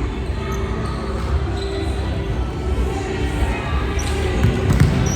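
Volleyball play in a hall: sharp knocks of the ball being struck and bouncing, clustering from about four seconds in, over the steady noise of the room.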